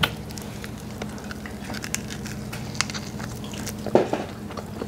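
A person biting into and chewing an air-fried chicken wing, with small scattered crunches and crackles, over a steady low background hum. The wing, seasoned but without baking powder, is only lightly crunchy.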